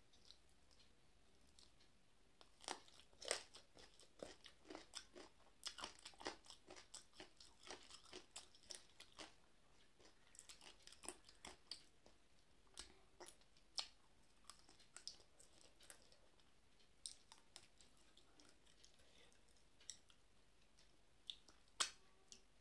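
A person chewing chicken close to the microphone: wet smacking and crunchy clicks of the mouth and food. The clicks come thick and fast for several seconds, then more sparsely, with one sharper click near the end.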